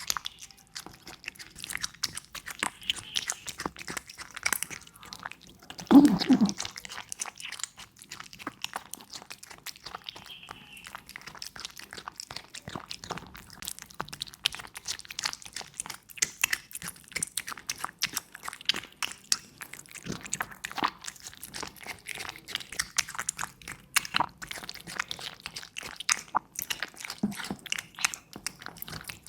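A cat chewing and crunching its food, a fast, irregular run of small crunches. About six seconds in there is one brief, louder, low sound.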